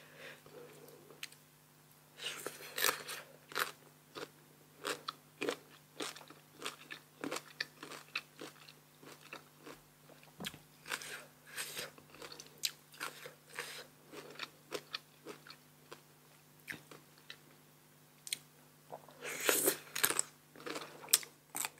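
Close-up bites and crisp crunchy chewing of raw sour green mango. The crunches come irregularly, with louder clusters of crunching a couple of seconds in and again near the end.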